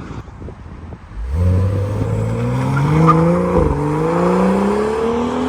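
BMW 335i's turbocharged inline-six accelerating through a catless downpipe exhaust: it starts about a second in and rises steadily in pitch, dips briefly at a gear change midway, then climbs again more slowly.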